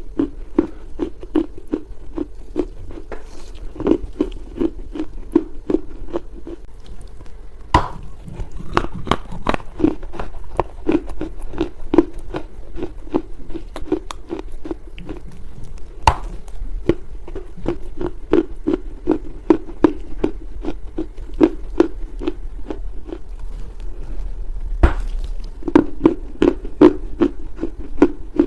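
Chinese loess (baked earth) being chewed close to the microphone: a steady run of soft crunches, about three a second, with a sharper crack three times, likely fresh bites.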